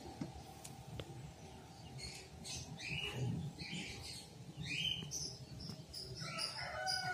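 Small birds chirping in short, repeated calls, some falling in pitch, over a faint low hum.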